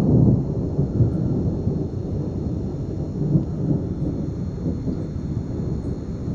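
Long low rumble of thunder from a passing thunderstorm, strongest at the start and slowly fading away.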